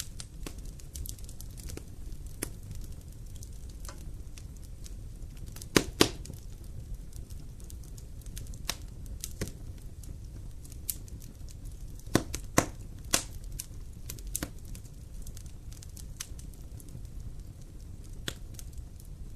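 Wood campfire burning, with irregular sharp crackles and pops over a low steady rumble; the loudest pops come about six seconds in and as a pair around twelve seconds.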